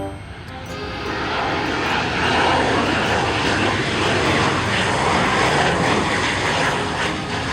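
An airplane passing: loud engine noise that builds over the first two seconds and then holds.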